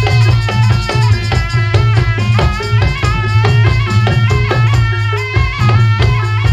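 Live barongan troupe music: fast-struck drums and percussion under a stepping, pitched melodic line, over a steady low drone.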